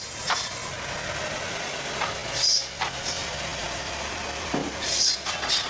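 Mobile bandsaw sawmill running steadily as its blade cuts through a log, with short hissing bursts about every two and a half seconds.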